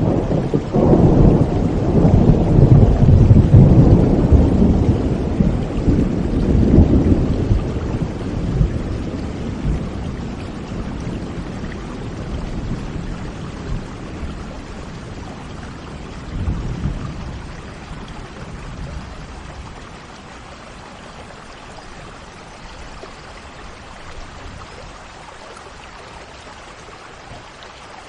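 Steady rain falling while a long roll of thunder rumbles and slowly fades over the first several seconds, with a second, shorter rumble about sixteen seconds in.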